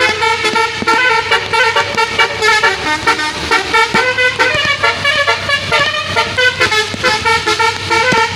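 Multi-tone musical vehicle horn playing a rapid melody of short notes that jump in pitch several times a second, sounding without a break.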